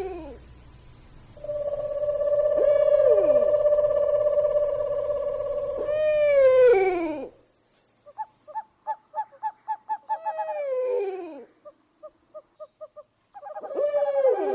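Animal calls: long, steady, pitched calls that fall in pitch at the end, several overlapping about six seconds in, followed by a quick run of short repeated notes and another falling call near the end.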